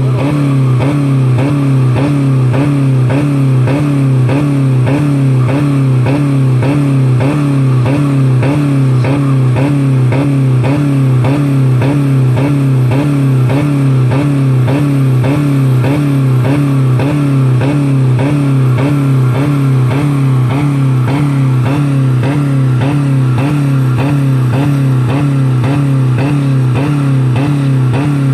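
2000 Dodge Neon's 2.0-litre four-cylinder engine held flat out against the rev limiter, bouncing off it in a steady rapid pulse about three times a second. It is running with no oil or coolant left in it.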